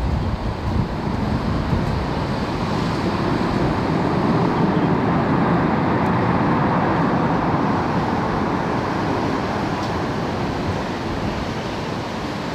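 Boeing 787-9 airliner's jet engine noise, a broad rush that swells to a peak about halfway through and then slowly fades as the aircraft passes.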